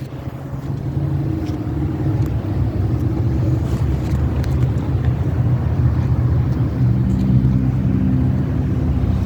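A car's V8 engine idling steadily, with a deep, even note. A slightly higher tone joins in about seven seconds in.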